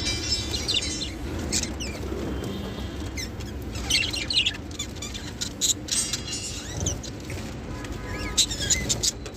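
Small birds chirping and twittering in many short, high calls and trills, with the busiest bursts about four seconds in and near the end.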